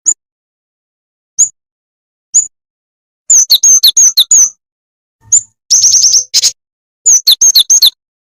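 Lure recording of a jingjing tetep bird calling: sharp, high chirps that drop in pitch. The first three chirps come singly about a second apart, then the chirps run in quick series of four to six notes, with a faster trill about three-quarters of the way in.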